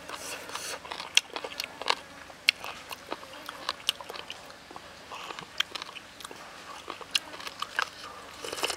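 Close-miked eating sounds: a man chewing fried chicken, a string of sharp, irregular wet clicks and smacks from the mouth, and a sip from a cup near the end.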